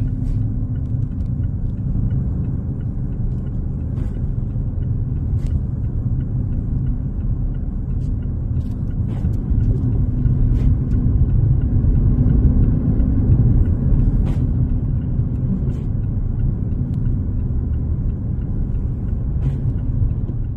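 Low, steady rumble of a car driving, with engine hum and road noise and a few faint ticks; it cuts off suddenly at the end.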